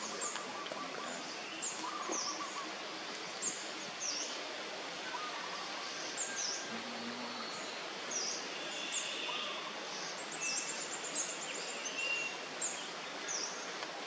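Small birds chirping over a steady hiss of outdoor background noise: many short, high chirps, each a quick falling note, come every second or so.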